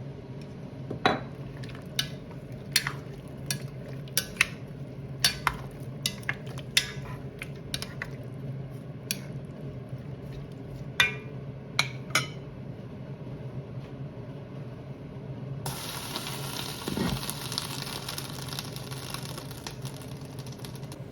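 Kitchen cooking sounds over a low steady hum: irregular sharp clicks, roughly one a second, for the first half. From about three-quarters in comes a steady hiss like simmering or sizzling food.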